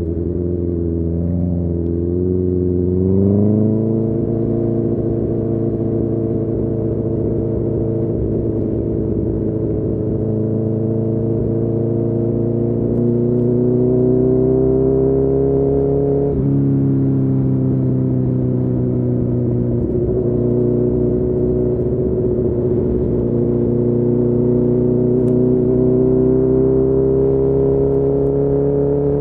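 Honda CB1000R's inline-four engine, breathing through a full Akrapovic exhaust, pulling steadily under way. Its pitch rises quickly about three seconds in, climbs slowly, drops sharply about halfway through at an upshift, then climbs slowly again.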